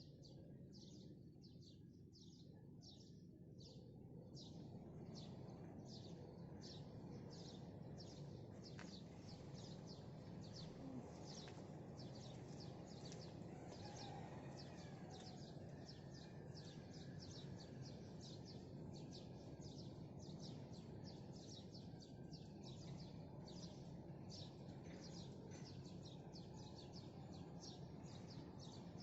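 Small birds chirping in a quick, even run of short high chirps, about two or three a second, over a faint steady low rumble of background noise.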